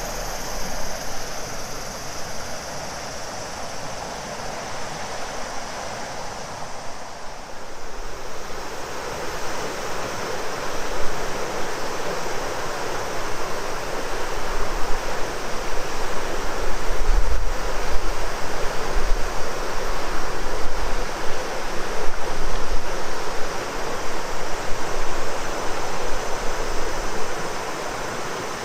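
River water rushing and splashing steadily, growing louder in the second half. Summer cicadas buzz high in the first few seconds and then fade. Low wind buffeting on the microphone comes in around the middle.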